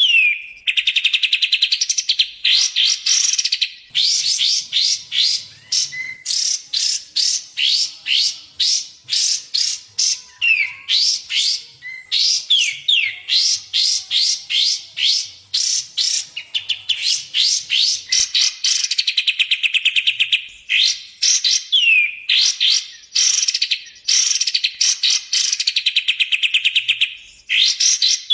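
Songbird song from a kapas tembak versus cucak jenggot masteran recording: fast runs of sharp, upward-sweeping chirps and rattling trills in phrases of a second or two, separated by brief pauses.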